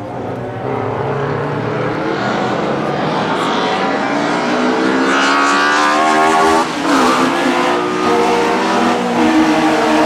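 Classic DTM touring race cars accelerating hard past the grandstand, engine note climbing steadily in pitch and loudness. About two-thirds through, the note drops briefly and then climbs again.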